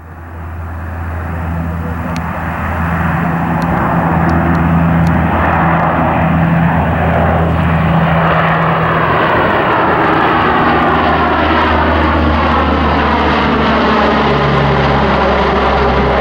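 US Air Force airplane flying past, its engine noise swelling over the first few seconds and then holding loud and steady, with a low steady drone under the rushing engine noise.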